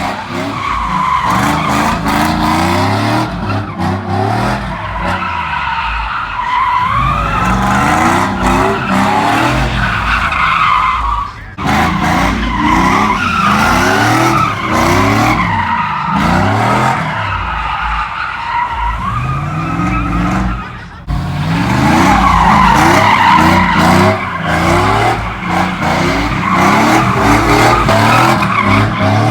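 Pickup truck doing a burnout: the engine revs up and down over and over while the rear tires spin and squeal on the pavement. The sound dips briefly twice.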